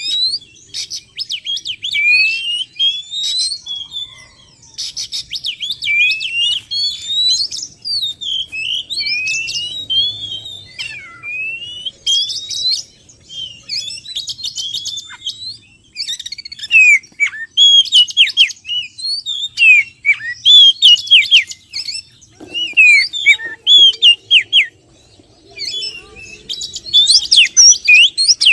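Oriental magpie-robin song as used in a lure recording for trapping: loud, continuous, varied phrases of rising whistles, sharp chirps and quick trills. The phrases become shorter and choppier about halfway through.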